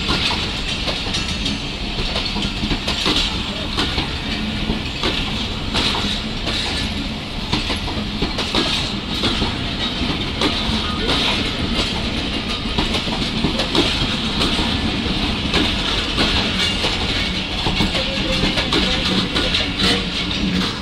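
Passenger coaches of the departing Awam Express rolling past on the platform line: a steady rumble of wheels on rail with repeated clicks over the rail joints.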